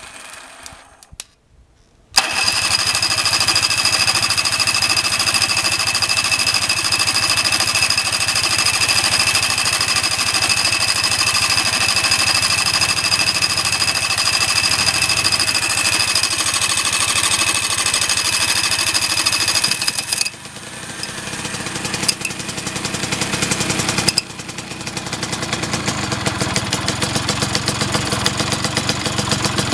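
Freshly overhauled Vespacar two-stroke engine, out of the vehicle, started on its electric starter. It catches about two seconds in and runs steadily and loudly with a high whine. About twenty seconds in the revs drop, then build back up.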